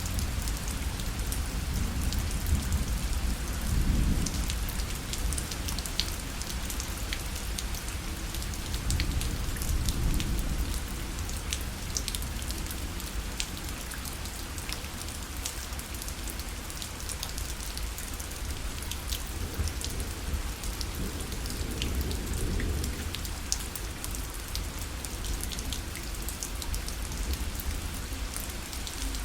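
Rain falling on a parasol: a steady hiss with many single drops ticking on the fabric, over a low rumble that swells a few times.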